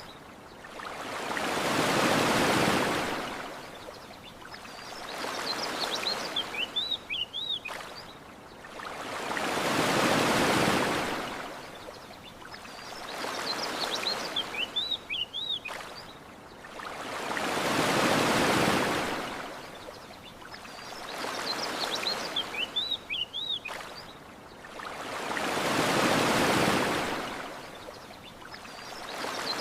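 Ocean surf washing onto a beach in a slow, regular cycle: a large wave rises and falls about every eight seconds, with a softer swell between. A short run of high bird chirps comes back at the same spacing.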